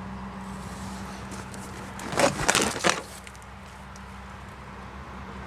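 A steady low hum, with a brief burst of crackling and rustling handling noise about two seconds in.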